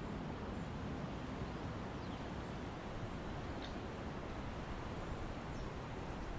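Steady wind moving through forest trees with the leaves rustling, and a few faint high bird chirps scattered through it.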